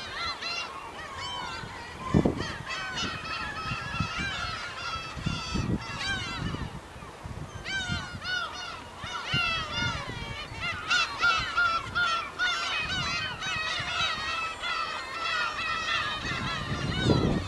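A large flock of black-tailed gulls calling continuously, many overlapping cries at once. A couple of short low thumps come through, about two seconds in and near the end.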